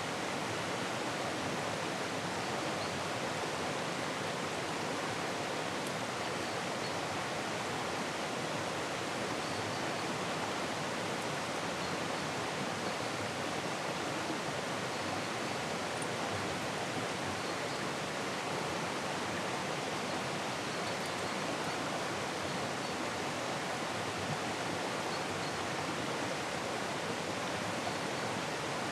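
A small river rushing steadily over rapids and riffles: an even, unbroken sound of running water.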